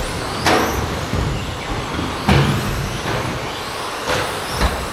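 Several electric RC stadium trucks running on a carpet track, a steady mix of motor and tyre noise, with four sharp knocks of the trucks against the track.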